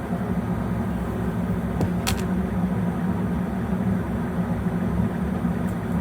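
A steady low mechanical hum, with one brief click about two seconds in.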